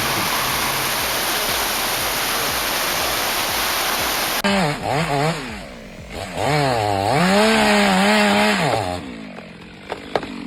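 Steady rushing water for the first four seconds or so, then an abrupt change to a chainsaw running, its engine revving up and down for about four seconds before it dies away near the end.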